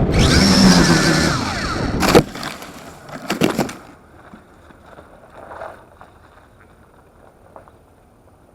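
Small quadcopter's motors and propellers whining loudly over wind noise, the whine falling in pitch, then a sharp crash about two seconds in and a second burst of clattering knocks about a second later, after which the motor noise is gone.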